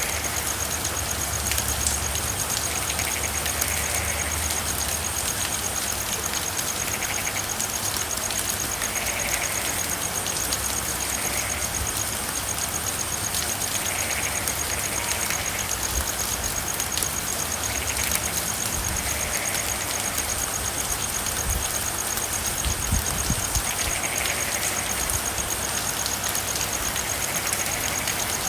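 Steady rain falling, with frogs calling in short notes every second or two over a continuous high-pitched trill.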